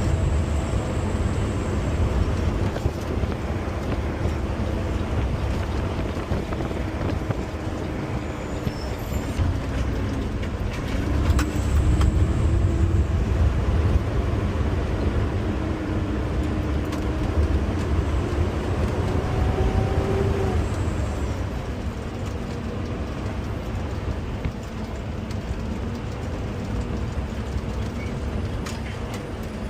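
Garbage truck's diesel engine running under way, a steady low rumble whose engine note slowly rises and falls; it is loudest about a third of the way through.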